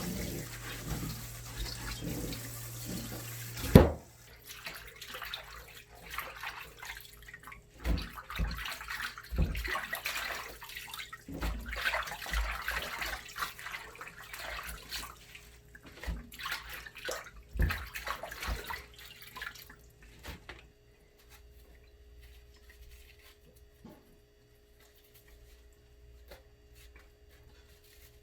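Water running from a tap into a sink, stopping with a sharp knock about four seconds in; then irregular splashes and knocks, as of washing in the sink, for about fifteen seconds.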